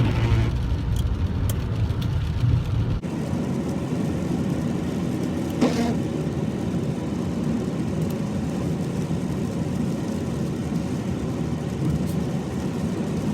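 Steady noise of a car driving in heavy rain, heard from inside the cabin: road and engine rumble with rain hiss. About three seconds in, the low rumble drops away abruptly.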